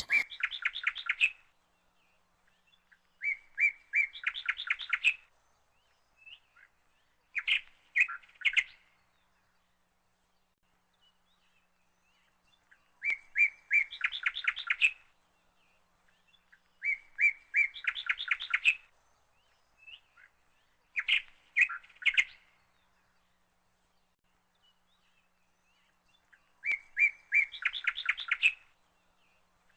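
A bird chirping: about seven short songs, each a quick run of repeated high notes lasting a second or two, with pauses of a few seconds between them.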